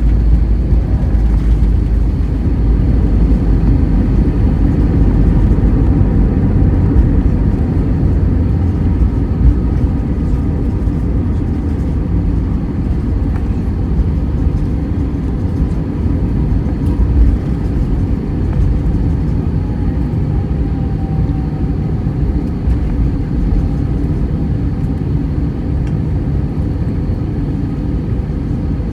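Airbus A320 cabin noise: a deep, steady rumble of engines and rushing air, easing off gradually as the jet slows on the runway after landing.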